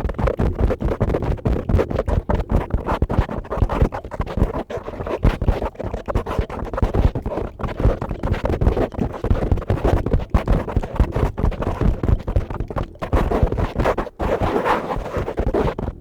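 A brush worked fast across a microphone: a continuous, dense run of quick scratchy strokes.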